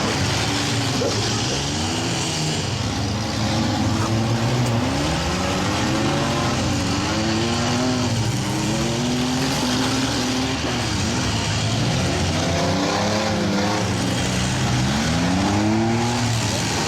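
Several demolition derby mini trucks and vans with their engines revving up and falling back again and again, overlapping, over a steady haze of noise.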